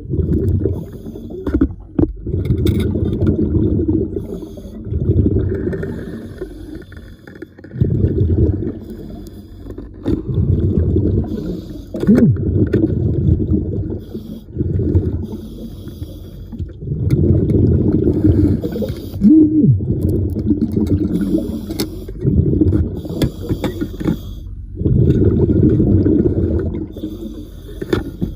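A diver breathing underwater through a regulator: a loud low rush of exhaled bubbles alternating with intakes, repeating about every two seconds.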